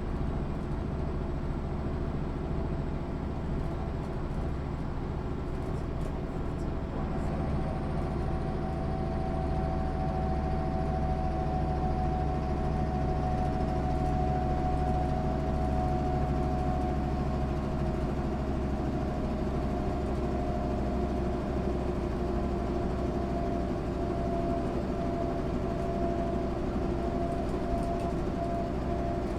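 MAN SÜ 272 bus's diesel engine running steadily, with a faint high whine that rises a little a few seconds in and then holds.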